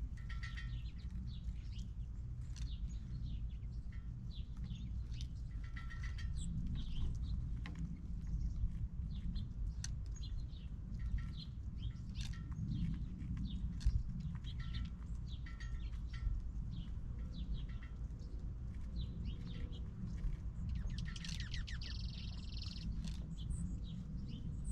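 Small birds chirping, many short calls throughout and a busier flurry near the end, over a steady low rumble.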